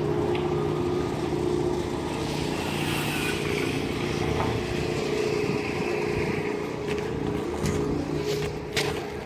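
A vehicle engine running steadily at a constant speed, with a few sharp knocks near the end.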